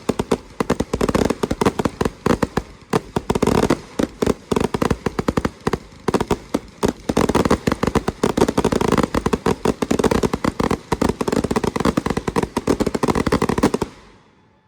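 Fireworks going off in a rapid, dense string of sharp bangs for many seconds, then stopping abruptly near the end.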